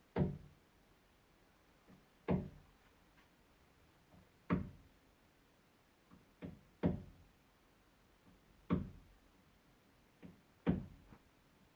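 Repeated knocking, one knock every two seconds or so, sometimes two in quick succession, each ringing out briefly before the next.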